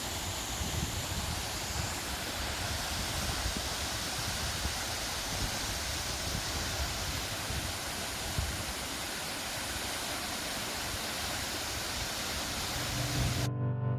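Steady outdoor rushing noise with some low buffeting, then background music starts abruptly near the end.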